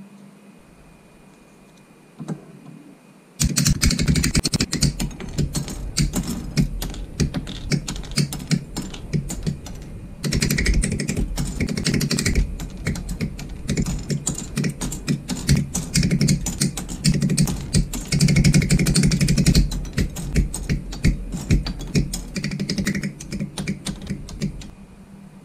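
Rapid, dense plastic clicking and snapping from a plastic model kit being handled and assembled. It starts suddenly about three and a half seconds in and stops just before the end.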